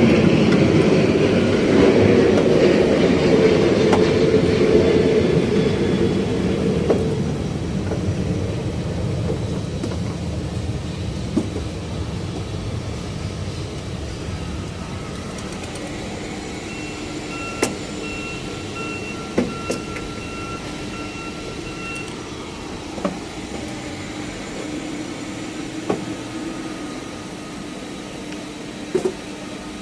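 Steady engine-like rumble that is loud at first and fades away over the first several seconds, leaving a lower drone. A few sharp clicks and knocks stand out against it, and a faint steady whine comes in for several seconds in the middle.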